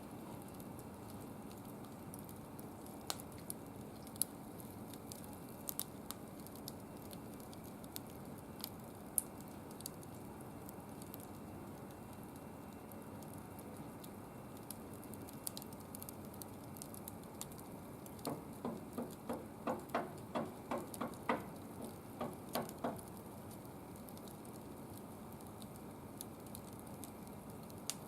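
Wood fire burning in a barbecue grill, a soft steady hiss with scattered sharp crackles and pops. About two-thirds of the way in, a quick run of a dozen or so short pitched sounds lasts for about five seconds.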